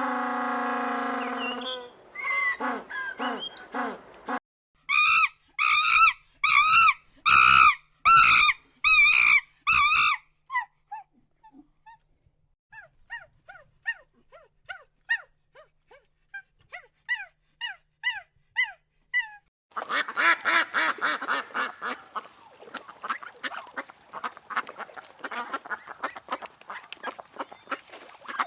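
Animal calls in several passages one after another. First a long pitched call and a few shorter ones. Then a run of about ten loud honking calls roughly half a second apart. Then faint chirps, and about two-thirds of the way through a dense chorus of many calls together.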